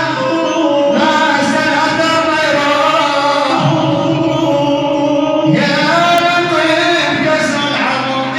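A male singer sings a mawwal in long, held, wavering phrases with short breaks between them, over a steady instrumental accompaniment.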